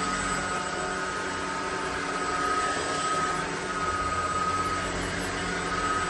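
Ultenic U16 Flex cordless stick vacuum running: a steady rush of air with a high whine that fades in and out.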